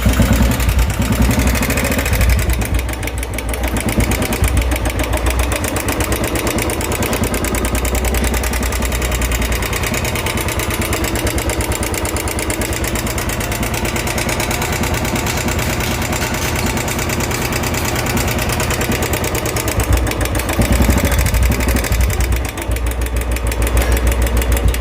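Royal Enfield 350 single-cylinder engine running with a loud, rapid tik-tik ticking from the top end, somewhat louder near the start and again for a few seconds near the end. The mechanic puts the noise down to loose hydraulic tappets that need tightening, not the piston, crank or timing chain.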